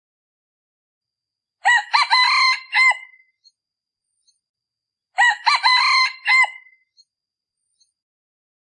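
Male decoy junglefowl crowing twice, about three and a half seconds apart, each crow lasting about a second and a half. This is the decoy call used to lure wild junglefowl.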